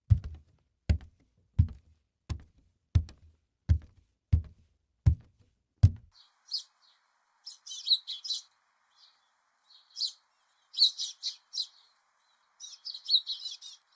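Nine dull thumps, evenly spaced about two every three seconds or so apart, then small birds chirping in short bursts of high, quick calls for the rest of the time.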